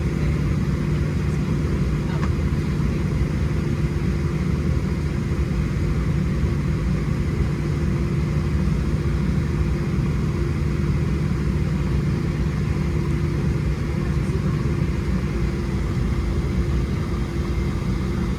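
Steady cabin hum inside a Boeing 737-700: a low drone with a couple of steady tones over an even rush of air and machinery.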